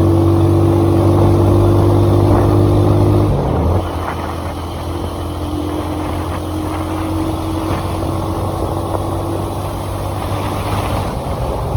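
Car engine running steadily under road noise; about three and a half seconds in, the engine's low hum drops away and the sound gets quieter, with a fainter engine note carrying on.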